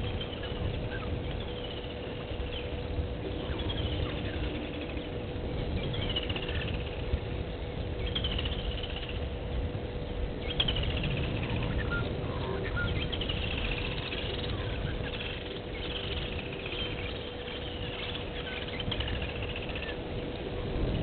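A bird calling over and over, a short falling high note about every two seconds, over a low rumbling background and a faint steady hum.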